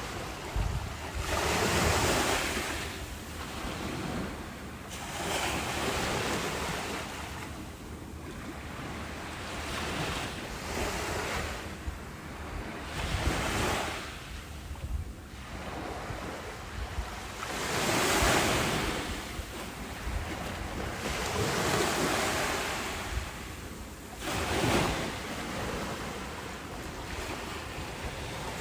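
Ocean waves breaking and washing up, a rushing hiss that swells and fades every few seconds, with wind on the microphone.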